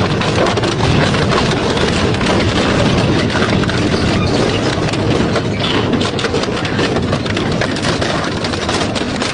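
Double-shaft shredder running under load, grinding and tearing metal with a continuous dense crackle of sharp cracks and crunches over a low machine drone.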